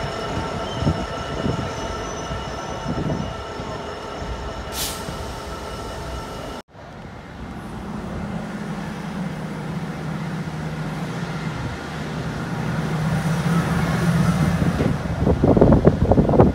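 A Class 66 diesel freight locomotive and its wagons roll past, with steady high-pitched wheel squeal over the rumble. The sound cuts off abruptly about six and a half seconds in. Then a steady low hum builds, and a louder train rumble grows near the end.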